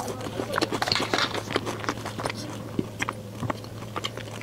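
Close-miked chewing of a mouthful of taro-paste egg tart: soft, irregular small mouth clicks and smacks.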